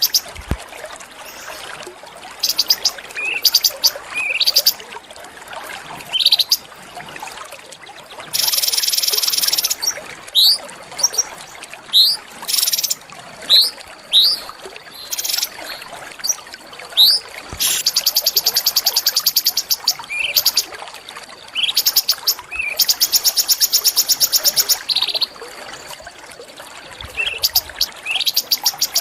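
Small songbirds singing: sharp rising whistled notes repeated every second or so, alternating with long, fast, rattling high trills.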